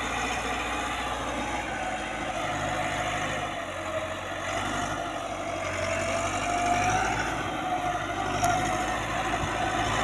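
Tractor engine running steadily while hauling a load.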